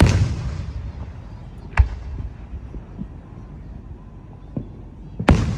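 Fireworks going off: a loud bang at the start that fades out over about a second, a sharp bang about two seconds in, scattered smaller pops, and another loud bang near the end.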